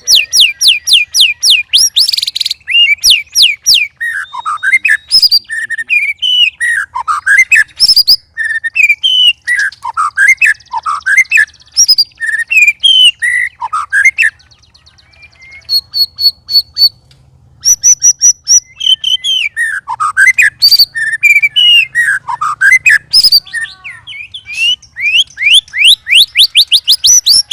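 White-rumped shama (murai batu) singing loudly and continuously. Fast runs of rapid, repeated rising whistles alternate with varied, rich phrases, with a short lull about halfway through.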